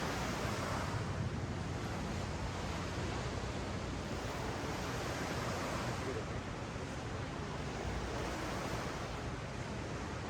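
Ocean waves washing up a sand beach: a steady wash of surf that swells and eases.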